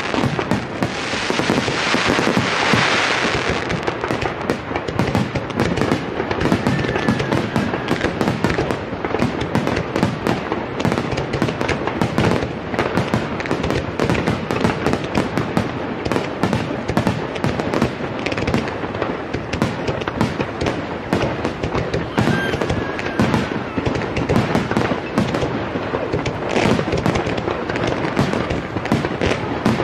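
Aerial fireworks heard from close to the launch site: a rapid, unbroken barrage of shell bursts and crackle, many reports a second. A hissing crackle fills the first few seconds.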